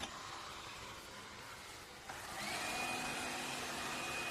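Laresar robot vacuum's suction motor switching on suddenly, then stepping up about two seconds in, with a whine that rises and settles into a steady hum.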